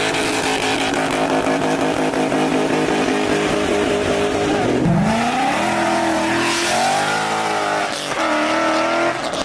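A car engine revving hard and held at high revs, with a steady hiss of spinning tyres typical of a burnout. About five seconds in the revs drop and climb again, then waver before dipping once more near the end.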